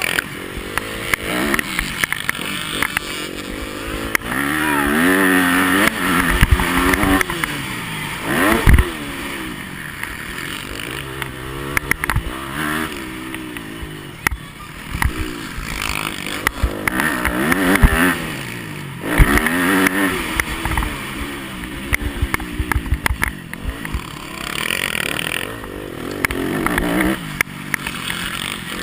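Yamaha motocross bike's engine revving up and dropping back again and again as it is ridden hard around the track, with frequent knocks and clatter from the bike over bumps and jumps. Heard close-up from an onboard camera, under a rushing noise.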